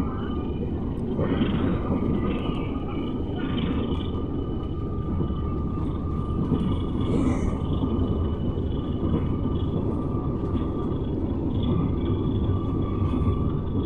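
Passenger train running at speed, heard from inside the carriage: a steady rumble of wheels on rail.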